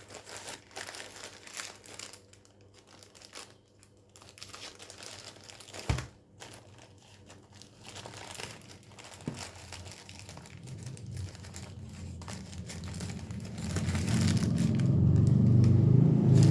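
Sock packaging being handled and opened: irregular crinkling and rustling with small clicks and crackles. In the last few seconds a low rumble builds and becomes the loudest sound.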